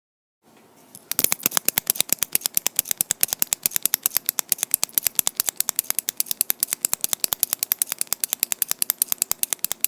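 Rapid, even mechanical clicking, about eight or nine sharp clicks a second, starting about a second in after a faint lead-in.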